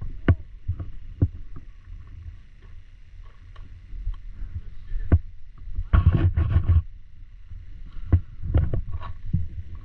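A scattered series of sharp knocks and clicks over a low, steady rumble, with a quick cluster of several about six seconds in and a few more near the end.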